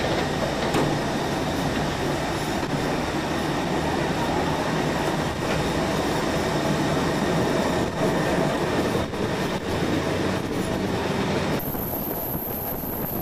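Passenger train running on its rails, heard from a car window: a steady rumble of wheels on track with a few scattered clicks. Near the end the sound changes abruptly: it becomes quieter and a thin, high whine comes in.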